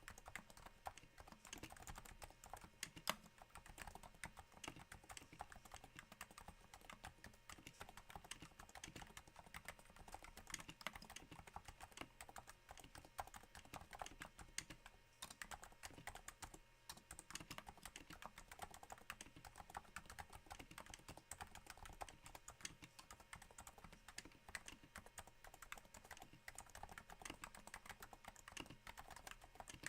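Steady typing on a Cooler Master NovaTouch keyboard with Topre switches damped by Hypersphere silencing rings, sitting on a thin desk mat: a quiet, irregular patter of soft keystrokes that sounds a little like rain.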